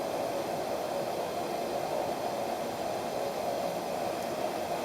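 Kero World KC-1104 kerosene heater burning: a steady, even rushing hiss from the wick flame, turned down to a clean blue flame.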